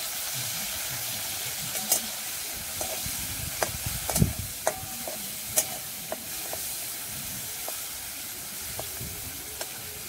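Prawns frying in hot mustard oil in a metal wok, a steady sizzle, with a spatula clinking and scraping against the pan a dozen or so times as they are stirred.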